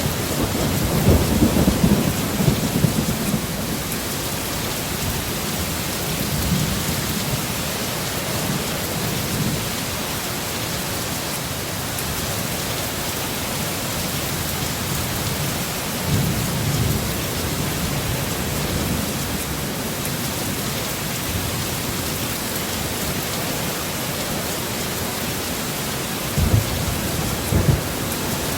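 Heavy rain in a thunderstorm making a steady hiss. Low thunder rumbles about a second in, again briefly around six seconds and sixteen seconds, and twice in short thumps near the end.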